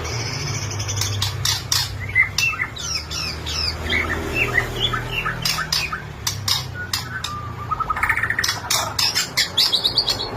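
White-rumped shama (Bornean murai batu) in full song: a fast, varied run of whistled notes and pitch glides mixed with sharp clicks, with a harsher buzzy phrase near the end.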